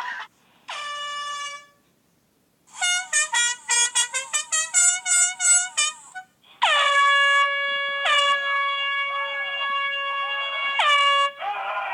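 Air horn blasting: one short blast, then a run of quick honks at about three a second, then long held blasts broken twice.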